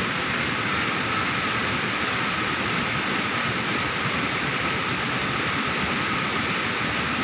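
Waterfall's falling water rushing steadily, an even unbroken noise.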